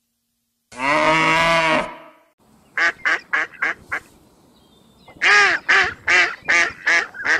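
Farm animals calling: one long, low call about a second in, then two runs of short, quickly repeated calls, about five and then about six.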